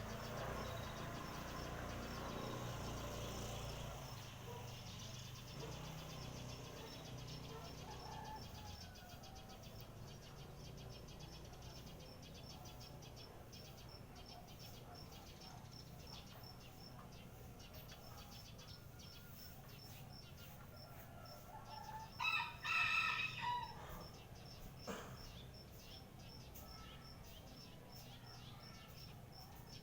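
A bird gives one loud call lasting about two seconds, made of several pitched segments, about two-thirds of the way through, with a shorter faint call soon after. Under it runs a faint, steady, high-pitched chirping repeated about twice a second.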